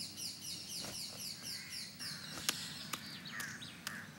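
Small birds chirping: a quick run of short falling chirps, about four a second, giving way to sparser, lower chirps in the second half, with a few faint ticks.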